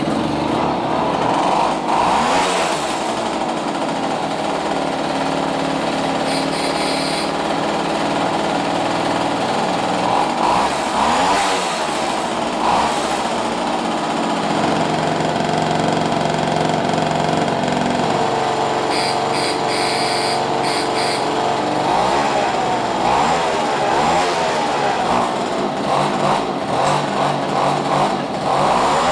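Restored moped's small engine running and being revved, its pitch rising and falling several times.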